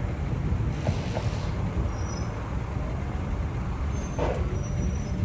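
City bus running with a steady low engine rumble, with a short hiss of air about four seconds in.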